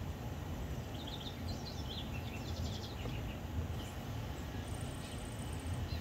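Birds singing outdoors: a run of short high chirps in the first half, then a fast, very high trill near the end, over a steady low rumble.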